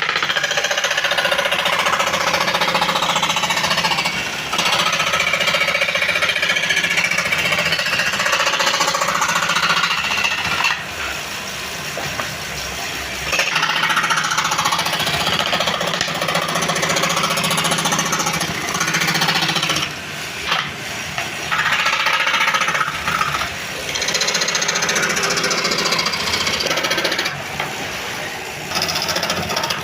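Woodworking power tool running with a loud, rattling cutting noise over a steady motor hum, easing off briefly several times as the work pauses.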